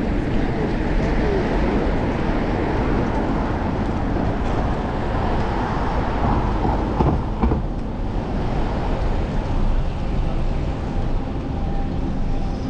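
Steady road noise from a bicycle ride through city traffic: wind rumbling on a chest-mounted action camera and passing cars, with a few brief knocks about seven seconds in.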